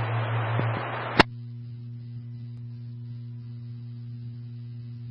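Police scanner static: open-channel hiss at the tail of a transmission, cut off by a sharp squelch click about a second in, then a low steady electrical hum with faint hiss.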